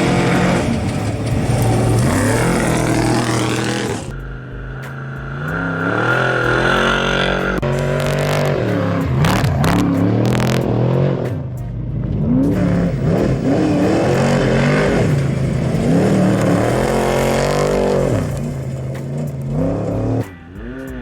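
Off-road race vehicles (Trophy Trucks and Class 1 cars) running loud engines, revving up and accelerating away from the start line one after another, the pitch climbing and dropping with each surge and gear change.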